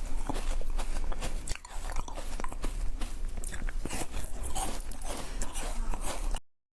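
Close-miked eating: biting and chewing with many sharp crunches and wet clicks, cutting out abruptly to dead silence near the end.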